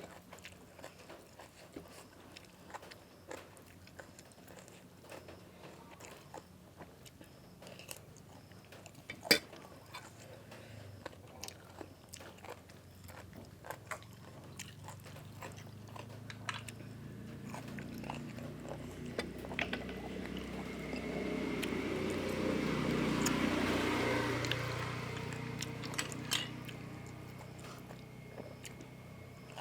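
A person chewing and biting crunchy food, boiled field snails and tam sua salad, with many small clicks and crunches. In the second half a low engine-like hum swells up and fades away again, like a vehicle passing.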